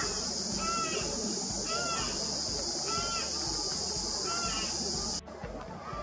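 Short bird calls repeated about once a second, over a steady high drone of cicadas that cuts off suddenly about five seconds in.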